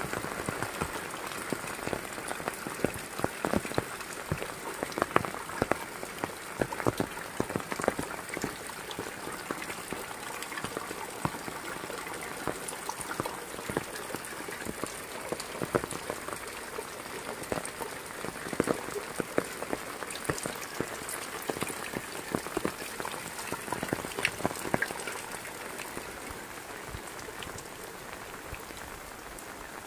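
Heavy rain falling: a steady hiss with many sharp, close drop impacts, easing and getting a little quieter in the last few seconds.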